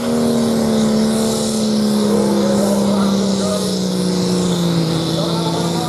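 Diesel pulling tractor's engine running hard under load, one steady note that sinks slowly and evenly in pitch as the revs are pulled down.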